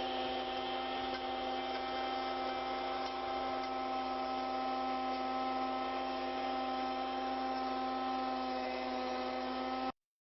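Steady electric hum made of several fixed tones over a light hiss, unchanging, cutting off suddenly near the end.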